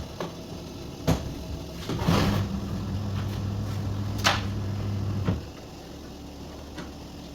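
Washing machine motor humming steadily, switched on with a clack about two seconds in and cut off with a click about five seconds in; other sharp clicks of the machine's lid or controls fall around it.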